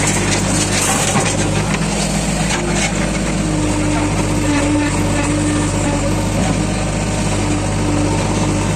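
Diesel engines of a JCB 3DX backhoe loader and a Mahindra 415 DI tractor running steadily as the loader works, with a few light knocks in the first few seconds.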